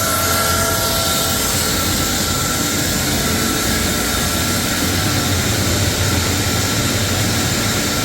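Sawmill saw machinery running steadily: a constant whine over a broad hiss and a low hum, with no breaks.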